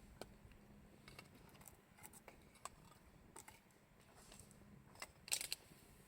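Campfire wood crackling: scattered faint pops and snaps, with a louder burst of crackles about five seconds in.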